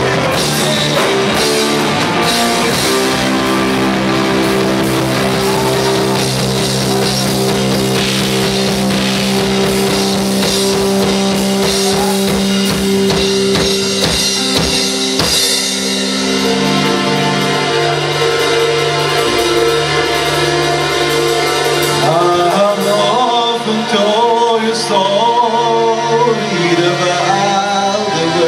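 Rock band playing live: sustained electric guitar chords over a drum kit in an instrumental passage, with a wavering, bending lead melody coming in about two-thirds of the way through.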